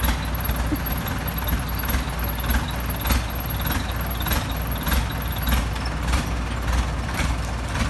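Excavator's diesel engine running steadily, with irregular short knocks and clanks from the machine as it works.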